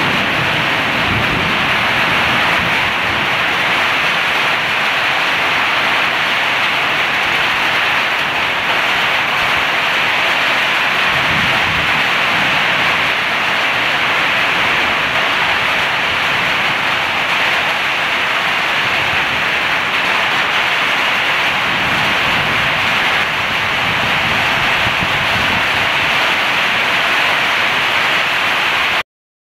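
Heavy rain pouring down onto a flooded concrete yard, a loud, steady hiss. It cuts off suddenly near the end.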